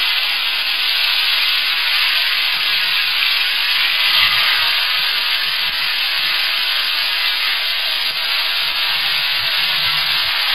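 Yogurt-marinated chicken breast pieces sizzling steadily in a hot, thinly oiled non-stick pan as more pieces are laid in.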